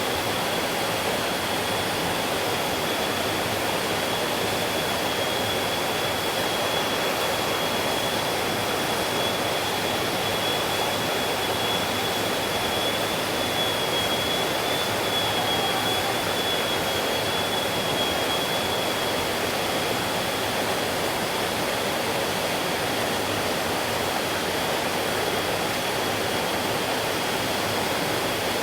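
Stream water rushing in a steady, unbroken flow, with a thin, steady high-pitched tone running through it.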